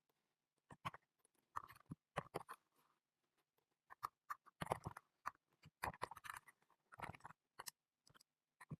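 Computer keyboard typing in irregular bursts of quick keystrokes.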